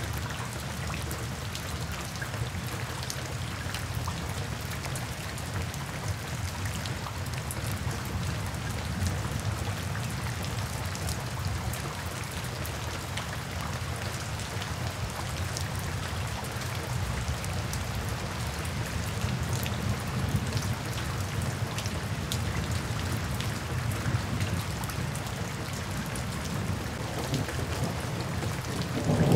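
Steady rain falling in woodland, a continuous hiss dotted with the ticks of individual drops, over a steady low rumble.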